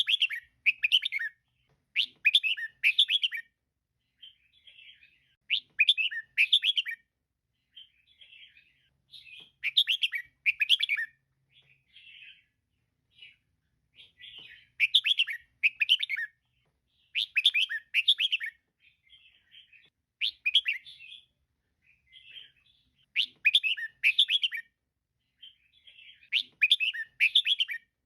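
Female red-whiskered bulbul calling: short, bright chirping phrases come in loud clusters every two to four seconds, with softer chattering notes between them.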